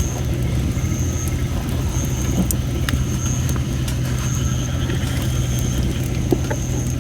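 Campfire of thin, under-dried red robin (Photinia) wood: moisture escaping the logs makes a thin, high hissing whistle that comes and goes, with a few sharp crackling pops, over a steady low rumble.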